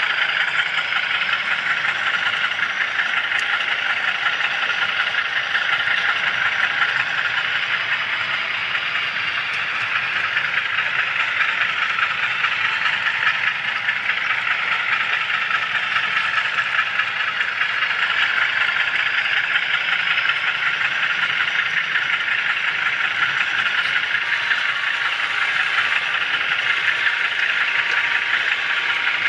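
HO scale model train rolling along the track, heard close up from the camera car riding on the rails: a steady whir of small wheels and motor, with a fast, fine clicking.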